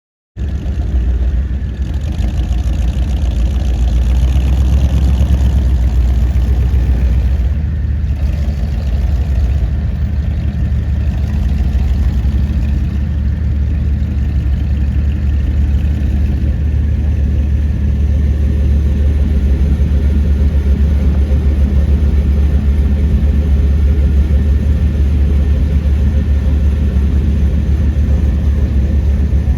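Car engine idling steadily with a low exhaust note, starting abruptly about half a second in.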